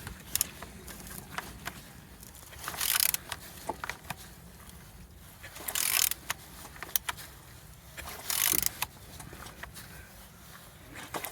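Renault K9K 1.5 dCi diesel engine being turned over by hand, giving three rasping bursts about three seconds apart with scattered clicks between, over a low steady hum. It turns freely.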